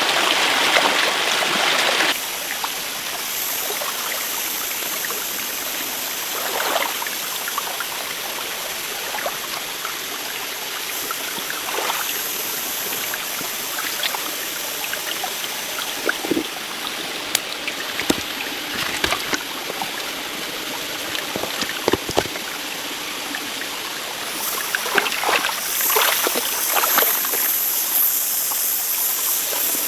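Running water of a stream, steady throughout, louder for the first two seconds. Scattered light knocks and scrapes sound over it, clustering near the end.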